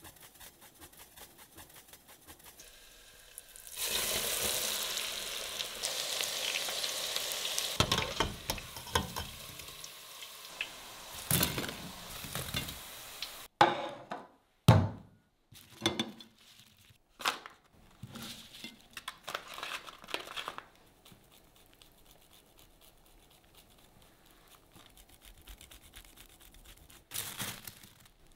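Breaded chicken pieces frying in hot oil: a steady sizzling hiss for about four seconds, followed by a string of separate knocks and clatters of kitchen handling, then a short crunchy rustle near the end.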